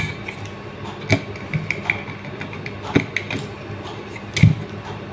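Screwdriver working out the small screws of an electronic I/O pack's housing: scattered light metallic clicks, with a slightly heavier knock about four seconds in.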